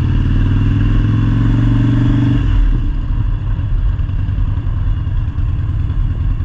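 Motorcycle engine running, with a steady pitched engine note that gives way abruptly about two and a half seconds in to a rougher, lower pulsing sound.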